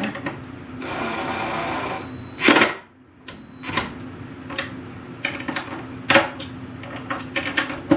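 A cordless drill/driver runs for about a second, driving a screw home, followed by a brief loud scrape and scattered clicks and knocks of tools and parts being handled.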